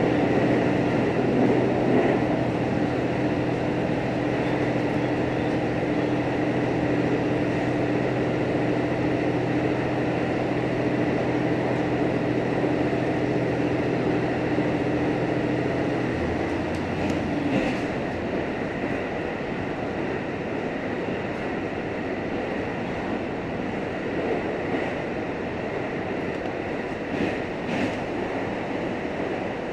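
Interior running noise of a JR Hokkaido H100 diesel-electric railcar: a steady mechanical hum over the rumble of wheels on rail. About 16 seconds in the hum drops away, leaving the quieter rolling noise of the wheels with a few short clicks.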